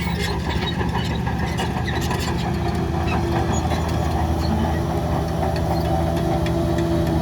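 Heavy diesel engine of an earthmoving machine running steadily at a constant speed.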